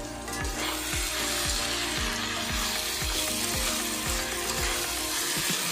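Watermelon rind and prawns sizzling in hot oil in a metal kadai as they are stirred, with a thin flour-and-water paste just spread over them. The sizzle grows louder about half a second in. Background music with a steady beat plays underneath.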